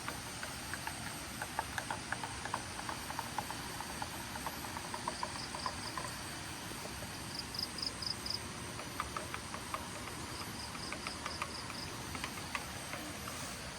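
Insects chirping in short, quick high-pitched trains over a steady background hiss, with light irregular clicks throughout.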